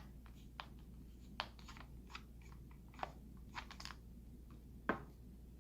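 Phillips screwdriver backing a screw out of a plastic iMac G3 speaker housing: faint, irregular small clicks and ticks, with a sharper click near the end.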